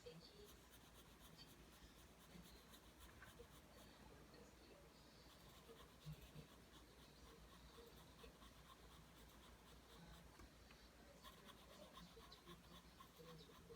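Pencil drawing lines on paper: faint, repeated scratching strokes of graphite on the sheet.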